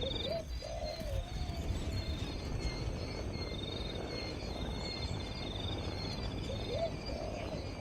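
A dove cooing in short low notes, once near the start and again near the end, over a high, rapidly pulsing trill that runs for a few seconds at a time.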